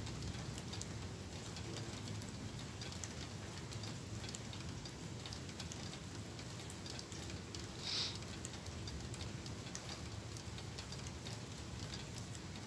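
Light rain pattering and dripping as many fine ticks over a steady low rumble. A short high chirp comes about eight seconds in.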